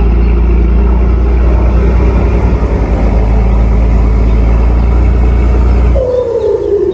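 Tugboat's diesel engine running with a steady deep hum. About six seconds in, it drops away abruptly and a single tone slides downward in pitch.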